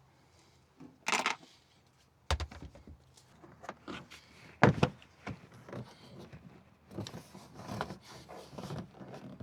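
Handling noises of car interior trim and tools: a short scrape, then scattered knocks, clicks and rattles, with the loudest knock near the middle.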